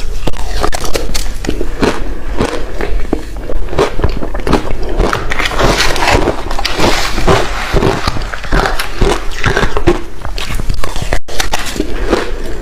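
Close-miked chewing of crushed ice mixed with passion fruit: dense, irregular crunching and crackling.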